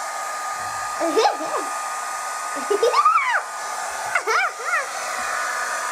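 Hand-held electric hair dryer running steadily, a continuous blowing hiss with a steady hum. Short wordless vocal sounds rise and fall over it about a second in, about three seconds in and again about four and a half seconds in.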